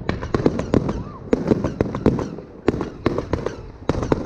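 Fireworks going off: a rapid, uneven string of sharp bangs and crackles, several a second, coming in clusters.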